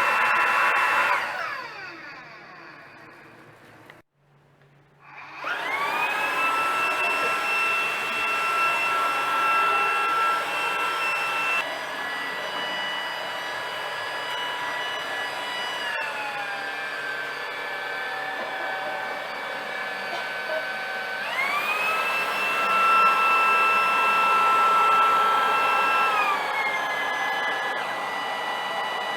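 Kärcher VC4i cordless stick vacuum's motor running with a high whine. It switches off about a second in and winds down to silence, then starts again with a rising whine. Its pitch steps down about halfway through, back up a few seconds later, and down again near the end.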